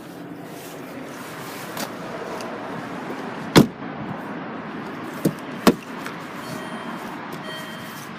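A steady background hum with a few sharp clunks. A light one comes just under two seconds in, the loudest about three and a half seconds in, and two more close together about five and a half seconds in.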